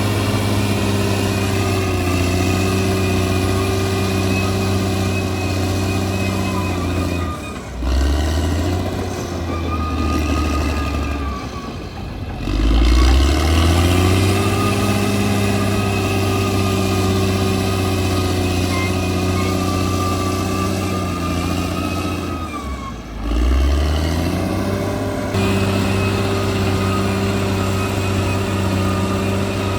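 Bulldozer's diesel engine running steadily, its pitch dropping and then climbing back up three times, about 8, 12 and 23 seconds in.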